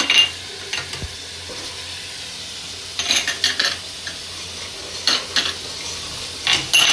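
Tomato and onion masala with spices sizzling in hot oil in a metal pot while a metal ladle stirs it. The ladle scrapes and clinks against the pot in short clusters at the start, about three seconds in, about five seconds in and near the end.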